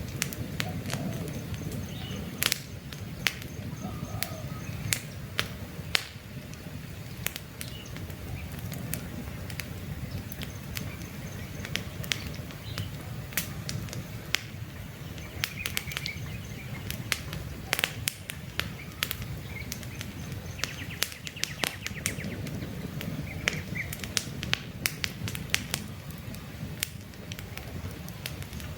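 Campfire crackling, with irregular sharp pops and snaps of burning wood over a steady low rumble of the flames. Faint bird chirps come now and then in the background.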